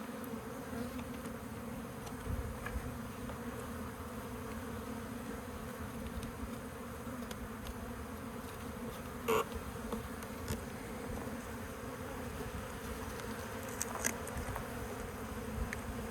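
Honeybee colony buzzing steadily, many bees in the air around their nest. A couple of short sharp knocks from handling, about nine and fourteen seconds in.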